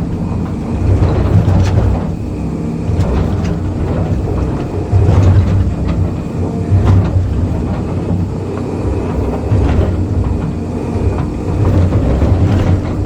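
Excavator's diesel engine running and surging several times under hydraulic load, with a few sharp knocks and clanks.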